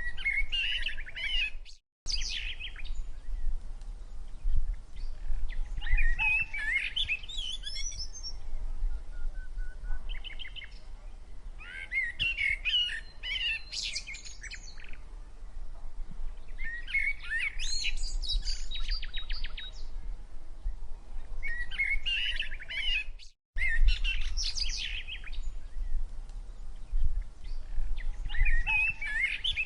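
Several small gelatik birds chirping in quick clustered bursts every few seconds while squabbling over food, over a steady low rumble.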